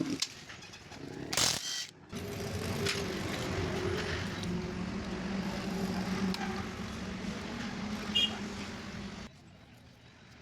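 A machine hum running steadily, then stopping suddenly about nine seconds in, with a sharp knock near the start.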